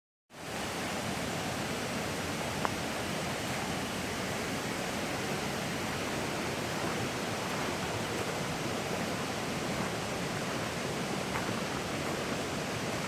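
Steady outdoor rushing noise, even and unbroken, with one faint click about two and a half seconds in.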